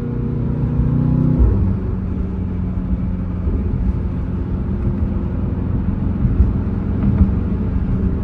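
Straight-piped Mercedes-AMG GT63 S twin-turbo V8 running under way, a steady exhaust rumble. About a second and a half in its pitch drops suddenly, then it holds steady at the lower pitch.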